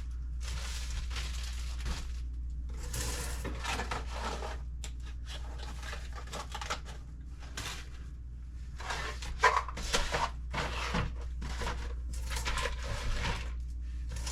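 Rustling and crinkling of food packaging as pantry items are handled and moved, with a couple of sharper knocks about nine and a half to ten seconds in.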